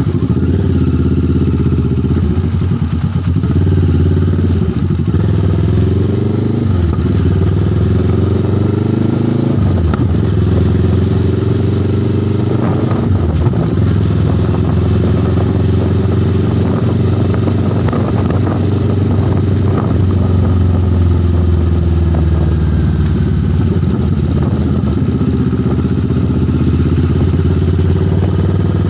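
Motorcycle engine running under way, its pitch rising and falling with the throttle, with a few sudden drops.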